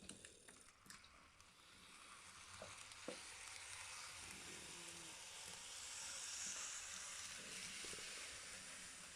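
A model railway train of the 103 series 3500 type running on its track: a steady hissing whir of the motor and wheels that grows louder over the first few seconds, after a few light clicks at the start.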